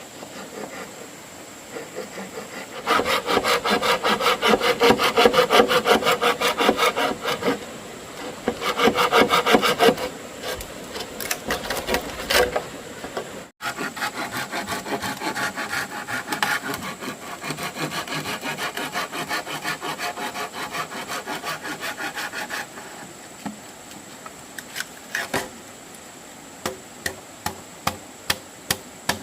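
Hand saw cutting bamboo in fast back-and-forth strokes, in two long spells, the first louder. Near the end come a few separate sharp taps, about two a second.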